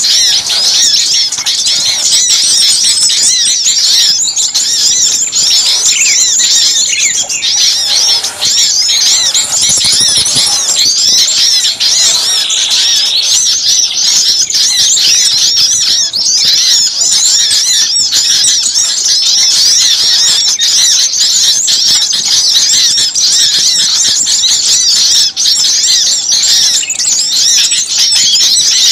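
A dense, loud chorus of small songbirds chirping and chattering at once, many high-pitched calls overlapping without a break. It is an agitated, noisy mixed-species lure recording of the kind played to draw small birds in.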